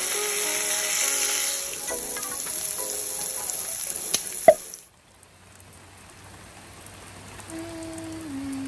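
Food sizzling as it fries in a pan, over background music. There is a sharp clink about four and a half seconds in, then the sizzle cuts off suddenly and only soft music remains.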